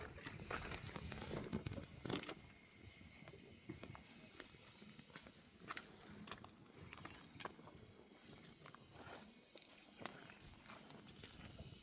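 Quiet outdoor ambience: an insect chirps in a steady, rapid train of short high ticks, with scattered irregular footsteps and knocks.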